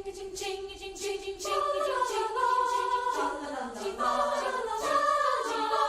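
A student choir singing wordless harmony, with a light, steady ticking beat. A single held note gives way, about a second and a half in, to several voice parts moving in chords.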